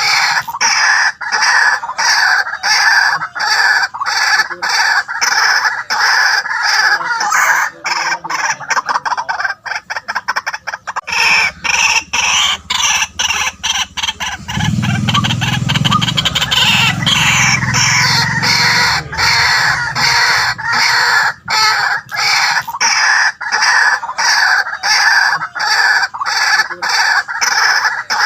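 White-breasted waterhen calling: a long, loud run of harsh repeated notes, about three a second. Partway through the notes quicken into a fast clicking run, then a deeper croaking stretch with a falling note comes in before the steady repeated calls resume.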